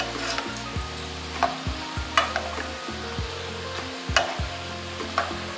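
Strips of dough sizzling as they deep-fry in hot canola oil in a pan, stirred with a metal slotted spoon that clicks against the pan about five times.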